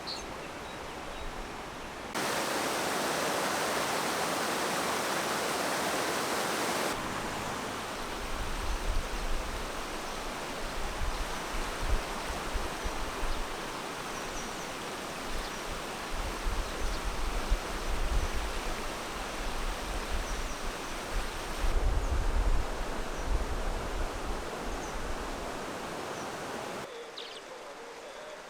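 Rushing water of a valley stream, a steady hiss whose loudness jumps several times as the shots change.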